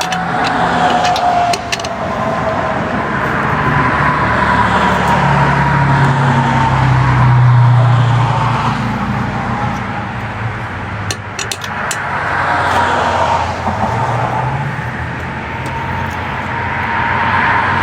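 Road traffic: cars passing by, a steady rumble and tyre noise that swells and fades as vehicles go past, with a few short clicks about two-thirds of the way through.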